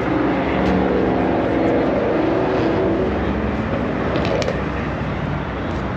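A car engine running close by, its pitch wavering over the first few seconds, over a steady outdoor rumble.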